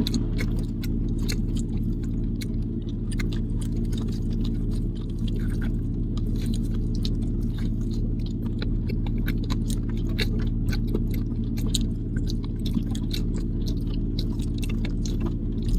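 Close-up chewing and biting on boiled corn on the cob, a run of small wet clicks and crunches, over a steady low hum.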